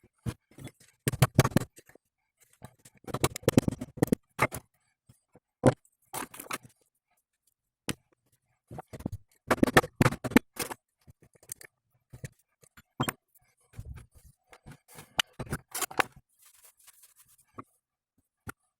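Metal scraping and clinking in several short, uneven bursts, as tools and metal parts are handled during work on a driveshaft's universal joint.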